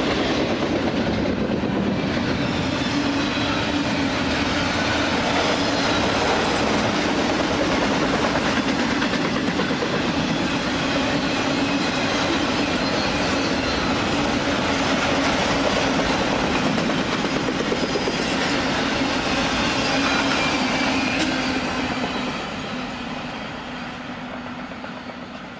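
BNSF double-stack container cars rolling past at speed: a steady clatter of steel wheels on rail with faint high wheel squeal. The sound falls away over the last few seconds as the end of the train passes.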